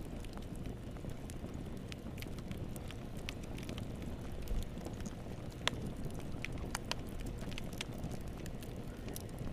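Fire crackling in a fireplace: scattered sharp pops and snaps over a low, steady rumble of the flames, with the loudest pop a little past halfway.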